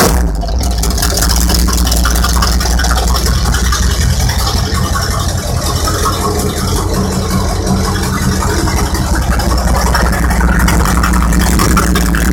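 V8 engine of a V8-swapped lawn mower idling steadily.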